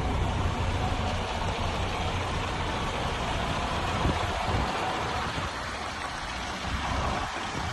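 MAN TGS 33.440 truck's six-cylinder diesel engine running steadily at idle.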